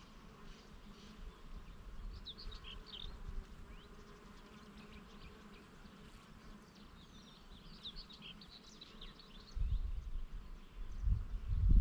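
Bees buzzing among flowers, with small birds chirping in short bursts twice. Near the end, a low gusty rumble of wind on the microphone comes in and is the loudest sound.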